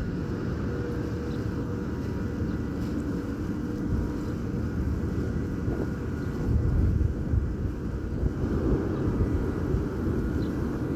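Ferry engines running: a steady low rumble with a faint steady hum.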